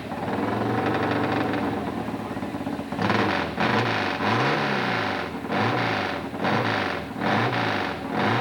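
Hill-climb motorcycle engine running hard. From about three seconds in its pitch rises and falls again and again as the throttle is opened and closed.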